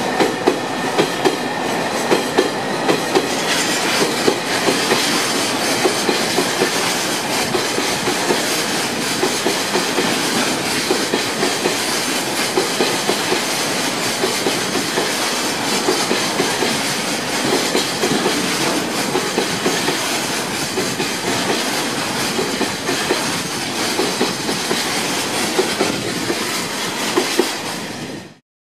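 A freight train of tank-container flatcars and tank wagons rolling past, a steady rumble with regular clicking of the wheels over the rail joints. The sound stops abruptly near the end.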